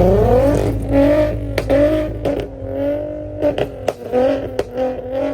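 Car engine revved up and then held at a steady high pitch, with repeated sharp pops from the exhaust, typical of a two-step launch limiter.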